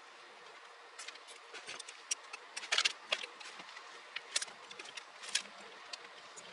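Irregular light clicks and rattles of hands working wiring and plastic parts, with a quick run of clicks a little under three seconds in.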